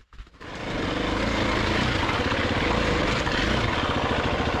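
Dirt bike engine running steadily under throttle on a rocky trail, an even rapid pulse of firing strokes, coming up quickly about half a second in after a brief gap.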